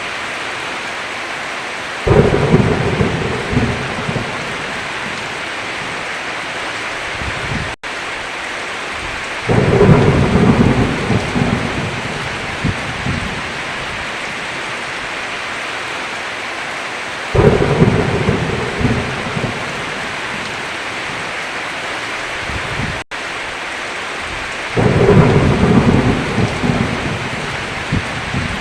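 Steady heavy rain on a roof, with four rolls of thunder, one about every seven or eight seconds, each starting suddenly and fading over two or three seconds. The rain cuts out for an instant twice.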